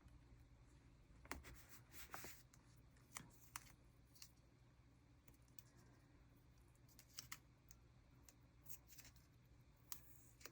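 Faint, scattered small ticks and rustles of stickers being peeled from a roll and pressed onto paper, over a low steady room hum.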